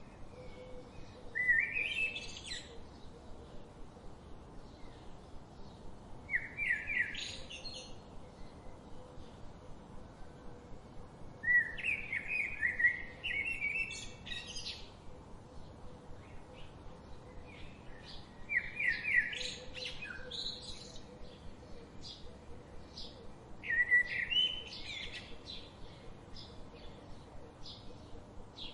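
A songbird singing a short song over and over: five phrases, about one every five seconds, each a quick run of notes climbing in pitch. Fainter chirps fill the gaps between phrases.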